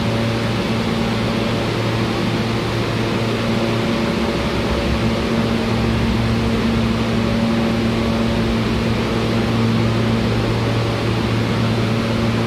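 Steady, even hum in a New York City subway station, with a low droning tone and its overtones that neither rise nor fall.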